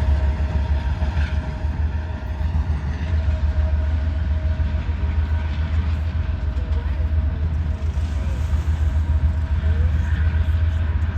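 Freight train rolling past, a steady low rumble with a thin steady ringing tone above it.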